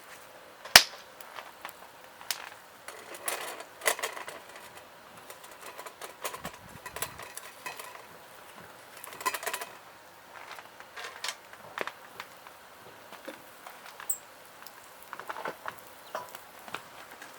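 Scattered clinks and clatter of cooking utensils against metal cookware, with one sharp click about a second in.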